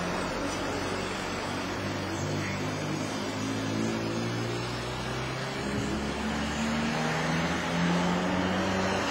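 Traffic noise from the street below, with a vehicle engine whose low hum shifts pitch in steps and grows a little louder in the second half, as if pulling away through the gears.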